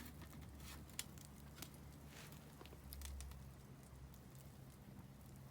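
Faint crackling of a wood campfire, with a few sharp pops over a low steady background hum.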